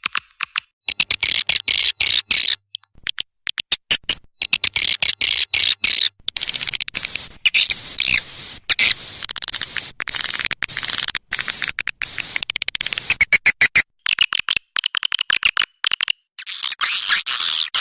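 Swiftlet calls: dense, rapid chirping and twittering in runs broken by short gaps. This is a recording edited together for calling swiftlets.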